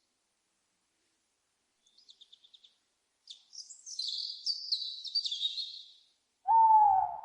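Small birds chirping and twittering in high notes, opening with a quick trill of about eight ticks a second. Near the end comes one loud, lower owl hoot, lasting about a second and dropping slightly in pitch.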